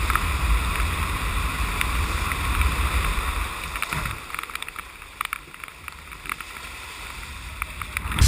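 Outdoor wind-and-water noise: a steady rush with low wind rumble on the microphone and a few sharp knocks, dropping in level about halfway through.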